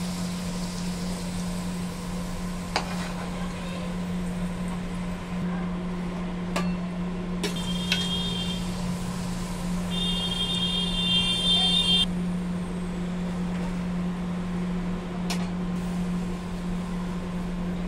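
Papad frying in hot oil in an iron wok: a steady sizzle over a constant low hum, with a few sharp clicks of the steel spatula against the wok. Two brief high-pitched tones sound near the middle.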